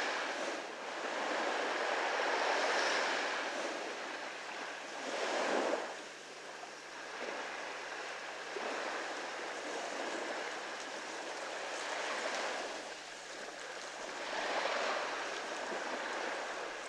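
Small ocean waves lapping at the shore, a steady wash that swells and falls back every few seconds as each wave comes in.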